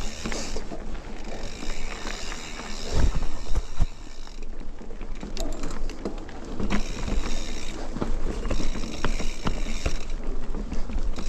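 Mountain bike on a dirt trail: the rear freehub ratchet buzzing while coasting, in two long stretches with a gap in the middle, over rattles and knocks from the bike on rough ground.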